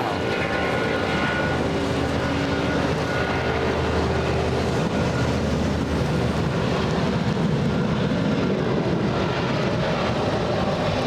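Airbus A330's Rolls-Royce jet engines running at power as it goes by: a whine of several steady tones that fades over the first few seconds, with a low rumble building toward the end.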